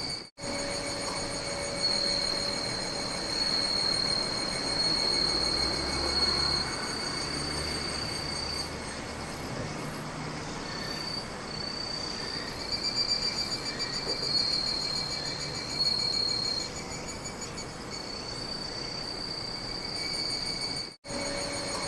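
Chorus of night insects trilling steadily in a high, continuous pitch over a background hiss. The sound cuts out completely for a moment twice, just after the start and about a second before the end.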